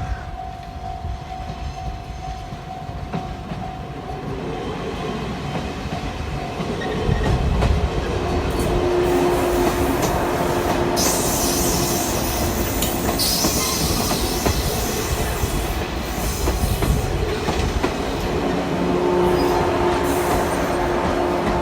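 Shinano Railway 115-series electric train running on the track, getting louder about seven seconds in and staying loud, with steady tones from its running gear and spells of high hiss.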